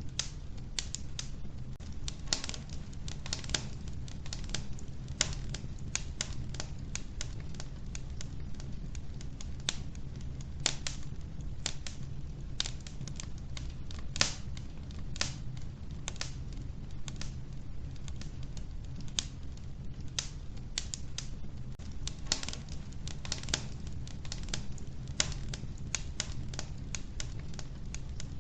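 Logs burning in a wood-burning stove: irregular crackles and sharp pops, several a second, over a steady low rumble.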